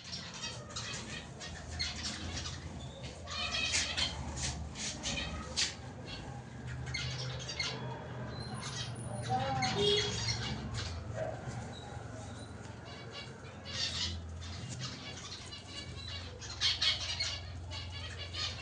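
A flock of birds chirping and chattering: a dense, continuous run of short, sharp calls, over a low steady background hum.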